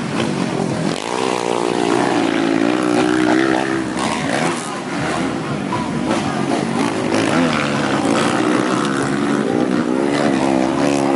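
Dirt bike engines revving hard on a motocross track, the pitch climbing as a bike accelerates about a second in and again near the end, over a steady drone of other engines.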